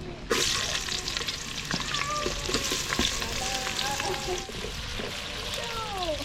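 Food frying in a cooking pot, a steady sizzle that starts suddenly about a third of a second in, with scattered clicks from stirring.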